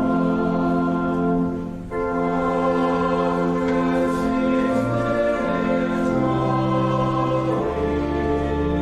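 Voices singing a hymn together over sustained organ accompaniment, in long held chords that move from note to note, with a short breath between phrases just before two seconds in and deep bass notes near the end.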